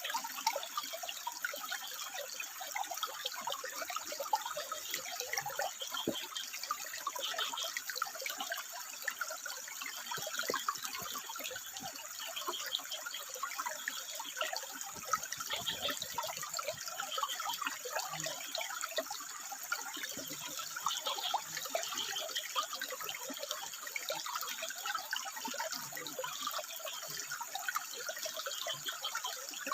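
Water trickling and splashing steadily over rocks, a continuous bubbling rush.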